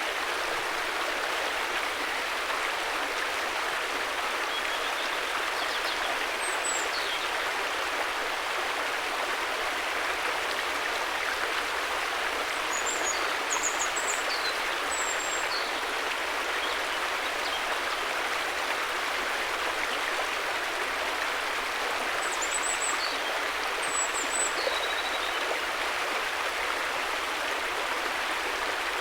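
River water flowing steadily with an even rushing noise, and short faint high chirps a few times over it.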